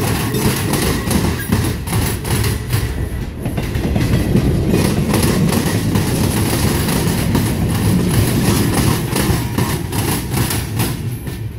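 Empty freight flatcars and a hopper car rolling past close by: a steady rumble of wheels on rail, with irregular clacks as the wheels run over the rail joints and the turnout.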